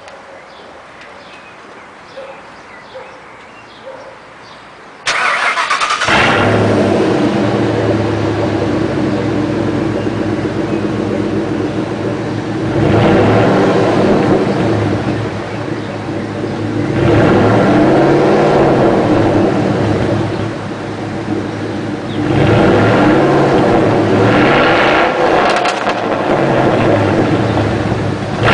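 A 1997 Ford F-150's 5.4 L Triton V8 with a straight single-pipe exhaust, no mufflers and only the catalytic converter, starts up about five seconds in and then idles loud and raw. It is revved three times, each rev rising and falling back to idle.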